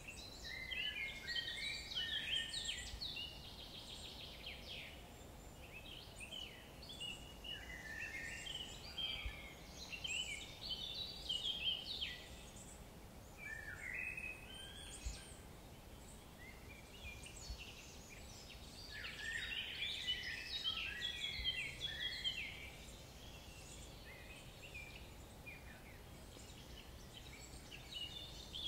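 Songbirds singing in several spells of quick, high chirps, a few seconds each, with gaps between, over a faint steady background hiss.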